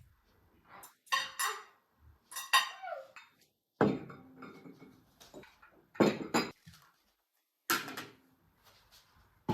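Dishes and cutlery being handled in a kitchen, clinking and clattering in a handful of separate knocks a second or two apart.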